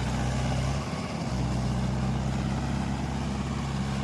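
Mahindra Yuvo 575 tractor's diesel engine running steadily, with a brief dip in its low hum about a second in.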